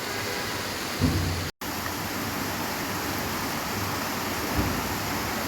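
Steady rain, an even hiss, with a couple of low thumps; the sound cuts out for an instant about one and a half seconds in.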